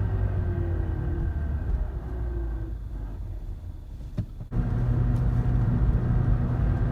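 Suzuki Swift 1.3's engine and drivetrain heard from inside the cabin while driving. The engine note falls as the car slows in gear, drops away during a gear change with a click about four seconds in, then comes back strong and steady.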